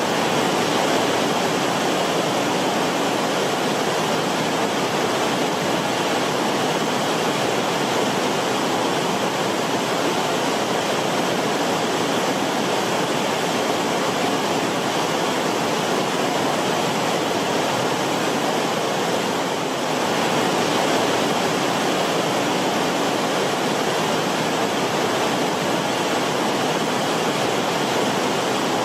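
Creek water flowing and rippling over rocks in a shallow creek bed, a steady, continuous rush.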